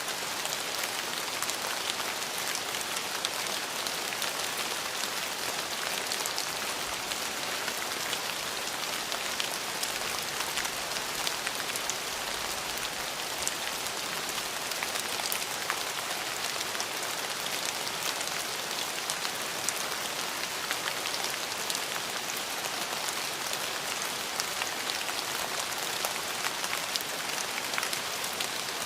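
Steady rain falling on a surface: an even hiss of rainfall with many small drop ticks, constant throughout.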